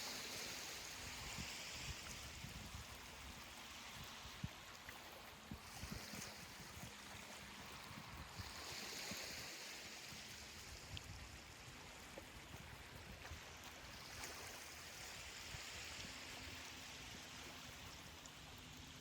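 Ocean waves washing on a beach. The hiss of each wash swells and fades every few seconds over a low rumble.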